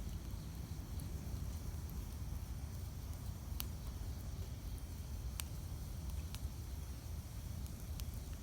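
Wood campfire burning: a steady low rumble of the flames with a few sharp crackles and pops of the burning wood at irregular intervals.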